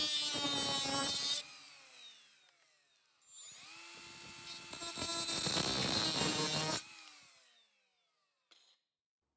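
A high-speed power cutting tool cutting off a lip of the car's sheet-metal body in two short bursts, the first in the opening second or so and the second starting with a rising whine about three seconds in. After each burst the motor winds down with a falling whine.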